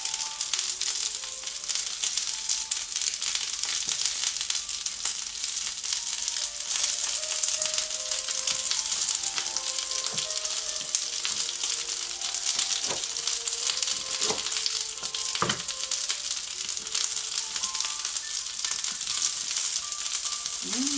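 Halved Brussels sprouts sizzling in olive oil and butter on a hot ridged grill pan: a steady, even frying hiss. A few light knocks come between about ten and fifteen seconds in.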